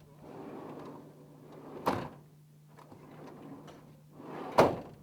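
Car doors slammed shut twice, about three seconds apart, each slam preceded by a short rustle of movement.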